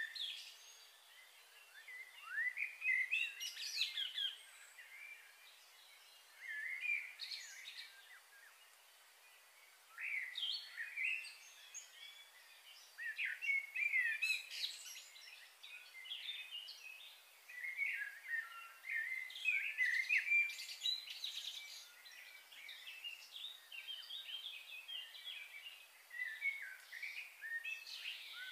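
Small birds chirping and calling in bouts of short, high chirps and quick pitch glides, with quieter gaps of a second or two between bouts.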